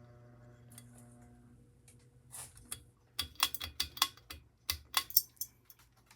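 Ceiling fan motor running with a low, steady hum that fades out about a second and a half in, followed by a run of sharp clicks and knocks over the next few seconds.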